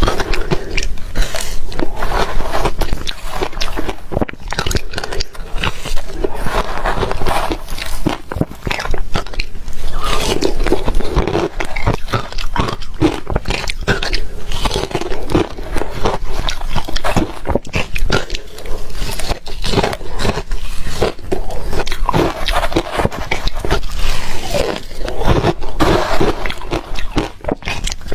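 Close-up crunching of ice being bitten and chewed: a dense run of sharp cracks and crunches throughout.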